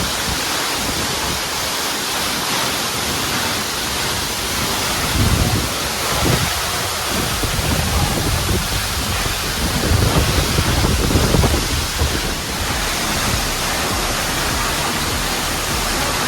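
Steady rushing roar of a monsoon-swollen waterfall, with low rumbling surges about five seconds in and again around ten to twelve seconds.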